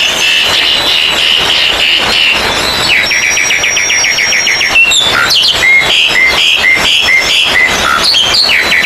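Several oriental magpie-robins (kacer) singing at once in a dense, loud chorus of rapid repeated chattering notes and short whistles, with the songs overlapping throughout.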